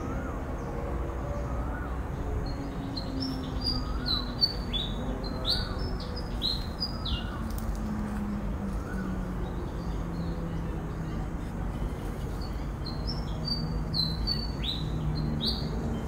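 Birds calling in two clusters of short, high chirps, a few seconds in and again near the end, over a steady low rumble.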